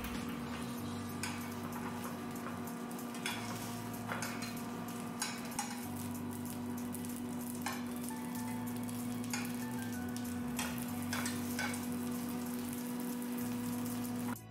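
Kimchi dumplings sizzling as they pan-fry in plenty of oil, with light clicks now and then as metal tongs turn and push them. A steady low hum runs underneath.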